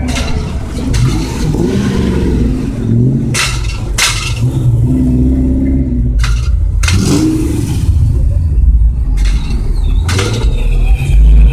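Car engine running with a deep, loud low rumble, its pitch rising and falling slightly as it is revved.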